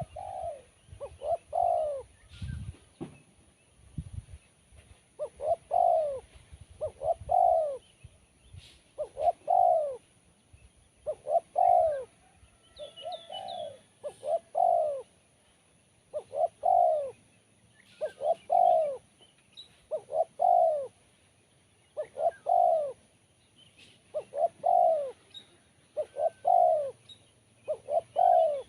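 Spotted dove cooing over and over, in pairs of arched coos about every two seconds, in the crisp, sharp voice that is valued in a contest tekukur. Faint chirps of other birds sound behind it, and there are a few low thumps in the first few seconds.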